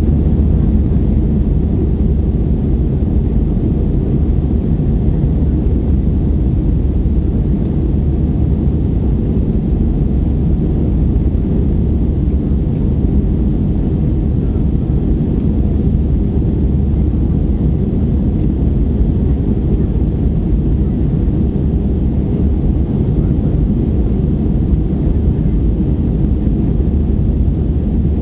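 Steady low rumble of Airbus A320 cabin noise, engines and airflow, during the climb after takeoff.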